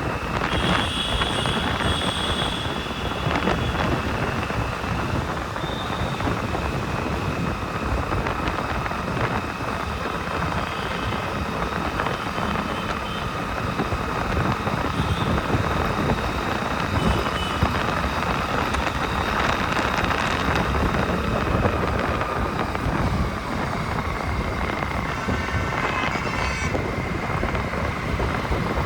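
Wind rushing over the microphone of a moving motorcycle, with the steady rumble of road and traffic noise. A brief pitched tone sounds near the end.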